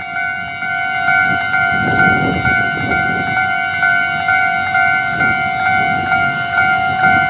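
Level crossing warning alarm sounding a steady, regularly pulsing tone while an EMU500 electric commuter train passes over the crossing, its wheels rumbling and clattering on the rails. The train noise is loudest about two seconds in and again around five to six seconds.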